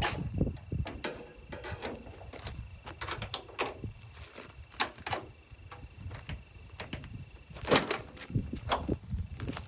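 Irregular knocks and clicks of objects being handled, with a louder knock about eight seconds in.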